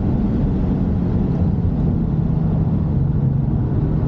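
Jaguar F-Type P300's turbocharged 2.0-litre inline four-cylinder engine running on track, with tyre and road noise. Its steady note drops to a lower, rougher hum right at the start and then holds fairly steady.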